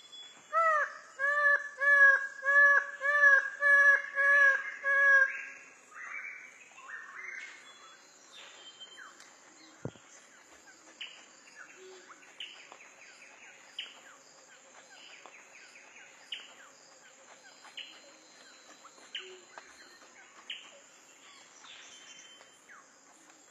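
Birds calling: one bird gives a quick run of about nine loud, arched call notes over the first five seconds, then fainter scattered chirps carry on over a steady high-pitched hiss.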